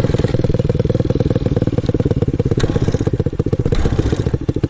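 Pit bike engine idling with a fast, even exhaust beat.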